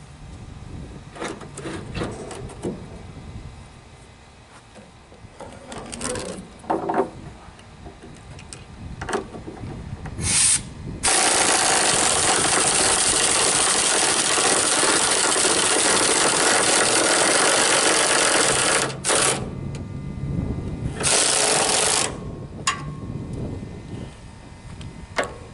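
A power tool running in short bursts and then one long harsh run of about eight seconds, with scattered knocks and clanks before it. It is most likely the tool driving fasteners into a trailer.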